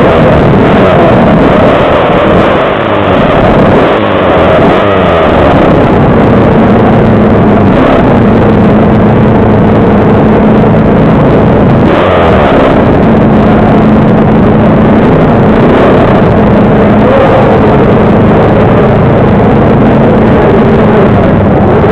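Pit bike engines racing, loud and continuous, their pitch rising and falling as the riders open and close the throttle and shift.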